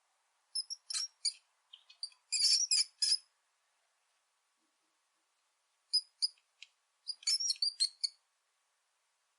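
Rat squeaking: two bouts of quick, very high-pitched squeaks, the first starting about half a second in and the second about six seconds in, with a pause between.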